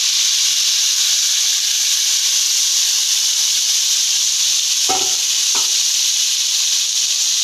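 Marinated liver pieces sizzling loudly and steadily in hot oil on an iron tawa, the wet marinade throwing off steam. Two brief knocks sound about five seconds in.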